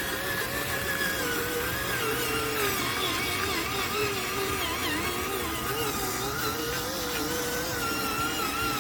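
Electric motor of a radio-controlled truck whining, its pitch wavering up and down as the throttle changes.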